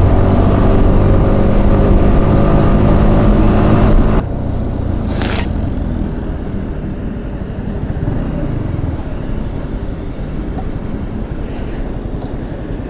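Yamaha R15 V4 single-cylinder motorcycle engine running steadily, then cutting off abruptly about four seconds in, leaving steady background noise with a brief hiss about a second later.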